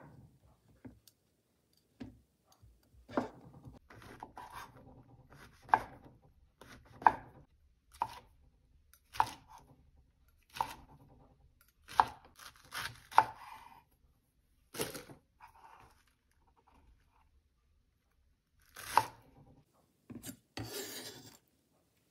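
Knife chopping on a cutting board in slow single strokes, about a dozen sharp knocks spaced a second or so apart, with a short scraping rustle near the end.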